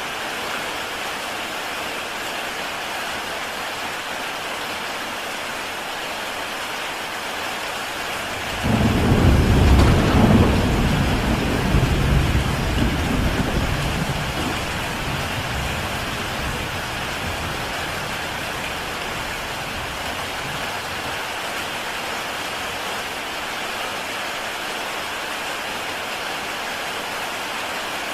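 Heavy rain falling steadily on a tile roof. About eight seconds in, thunder breaks in with a sudden low rumble that peaks for a few seconds and fades away over about six seconds.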